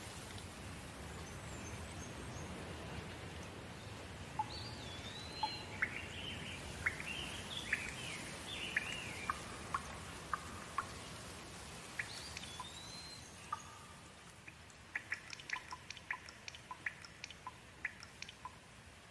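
Steady rain falling, with a bird calling over it in swooping whistles and short chirps. Near the end comes a quick run of short sharp ticks, like drips.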